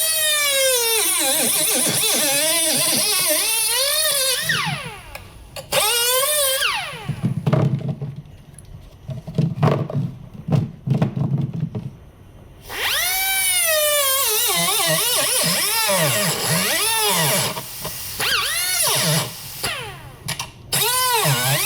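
Die grinder with a metal-cutting bit whining at high speed as it cuts through the airbox housing, its pitch sagging and recovering each time the bit loads up in the cut. It runs in several spells with short pauses between them.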